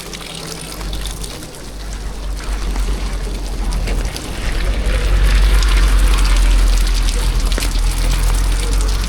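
Rain falling steadily, under a deep rumble that swells to its loudest about halfway through and then eases slightly.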